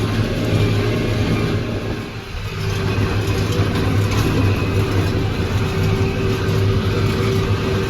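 McCormick MTX 150 tractor running steadily with a John Deere baler in tow. The sound dips briefly about two seconds in, after which a steady whine runs on over the engine drone.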